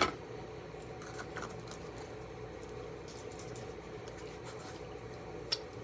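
Quiet handling of the plastic candy and its packet: a sharp click at the start and another near the end, with faint ticks and rustles between, over a steady low room hum.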